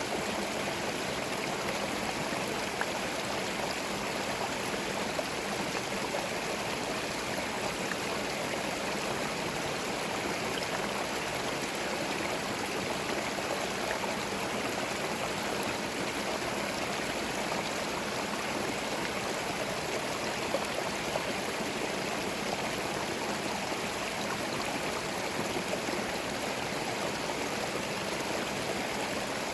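Small forest stream running steadily over stones, a continuous burbling rush of water with occasional small splashes.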